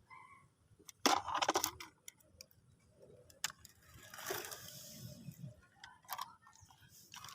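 Toy vehicles being handled, clattering and knocking: a quick burst of clatter about a second in, a rustling noise around the middle, and a few single knocks near the end.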